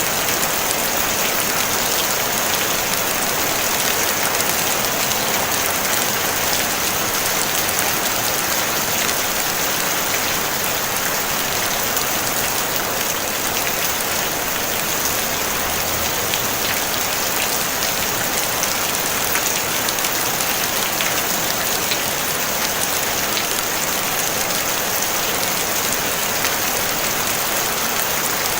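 Steady rain drumming on a tin roof: a dense, even patter of many drops with fine ticks, no thunder.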